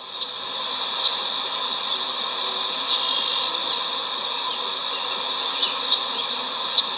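Steady buzzing of a honey bee swarm flying around the hive box just after being shaken in. A quick run of short high chirps comes about three seconds in, and a few faint ticks follow later.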